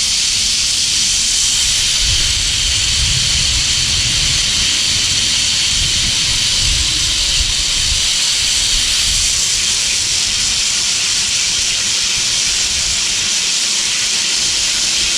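Steady high hiss of the cable bike's wheels running along the overhead steel cable, with a low rumble of wind buffeting the microphone that swells and fades through the first half.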